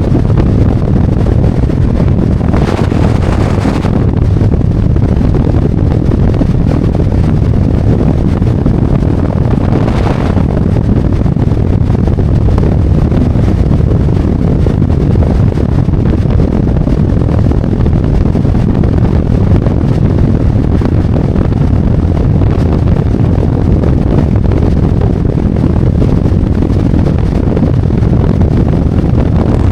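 Harley-Davidson Road Glide motorcycle cruising at speed: a steady low engine and exhaust rumble mixed with wind rush on the microphone, with a brief louder rush about three seconds in and again about ten seconds in.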